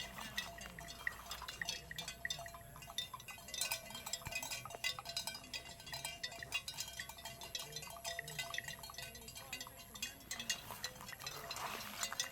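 Small bells clinking lightly, over a dense scatter of short clicks and crunches.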